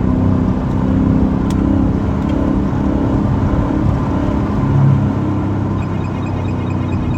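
Straight-piped 2023 Dodge Challenger Scat Pack's 392 HEMI V8 running steadily while cruising, its exhaust a continuous low drone that swells slightly about five seconds in.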